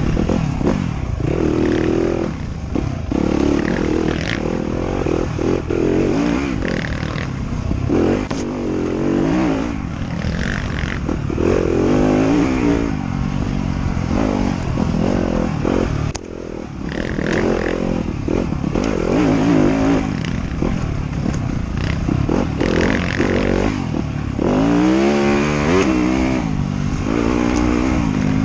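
Motorcycle engine being ridden hard, revving up and dropping back over and over as the throttle opens and closes, with scattered knocks and rattles.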